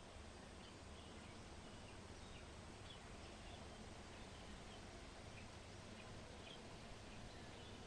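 Faint, scattered short chirps of small birds over a steady low background rumble of outdoor ambience.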